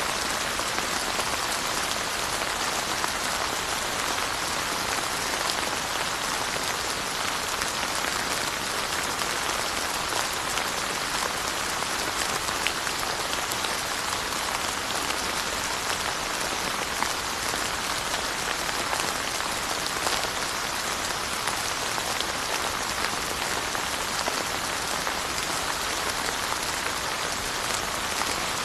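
Steady rain falling, a dense even hiss of rainfall with many small drop patters scattered through it.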